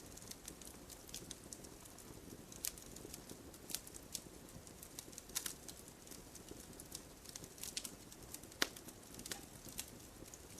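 Wood fire burning in a fireplace, crackling with irregular sharp pops over a low steady hiss; the loudest pop comes about eight and a half seconds in.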